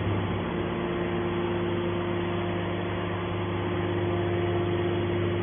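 Hydraulic scrap metal baler running with a steady, even hum from its motor and pump.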